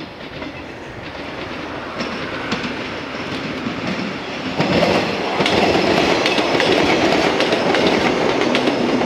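JR West 115 series electric train approaching and passing close by, its wheels clacking rhythmically over rail joints. The sound builds steadily and becomes loudest from about halfway in as the cars go past.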